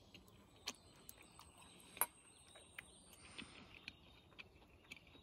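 Faint chewing of a mouthful of tomato pasta with tough whole onion skin: a few soft mouth clicks, the clearest about two seconds in, over near silence. A thin high steady tone sounds in the background for a few seconds from about a second in.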